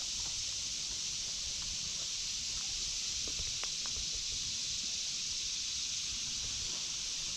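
Steady high-pitched drone of a cicada chorus (the 'locusts' of the woods), unchanging throughout, with a few faint ticks a little past halfway.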